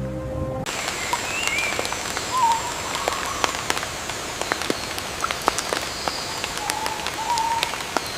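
Rainforest ambience: rain pattering with scattered sharp drop ticks, while birds give short whistled calls several times. Background music cuts off less than a second in.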